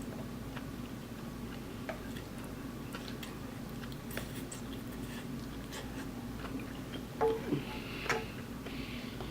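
A person chewing and eating spicy noodles close to the microphone: scattered small mouth clicks and smacks over a steady low hum, with a few louder clicks near the end.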